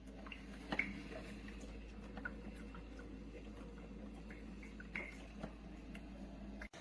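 Faint steady low hum with small scattered ticks and clicks.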